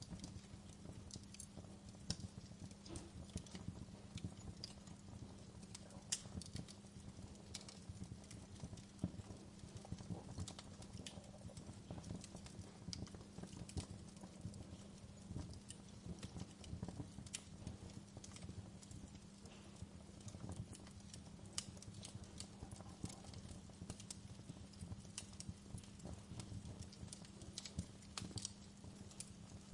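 Wood fire crackling, with irregular small snaps and pops over a low steady rumble.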